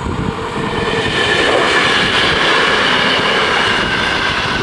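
Mat '64 electric train approaching, its running noise and a high whine swelling to a peak about two to three seconds in, the whine sinking slightly in pitch near the end.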